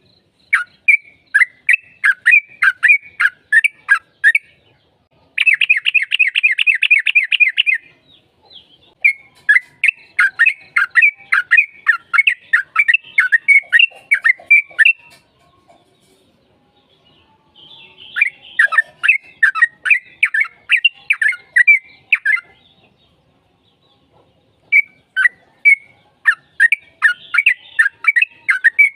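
Yellow-vented bulbul (trucukan) singing: loud runs of rapid chattering notes, several a second, each run lasting a few seconds. An even faster, buzzier trill comes a few seconds in, and there are short pauses between runs.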